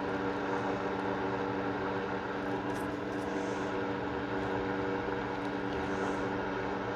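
A steady machine hum with several held tones over a hiss, running unchanged, with a few faint light ticks.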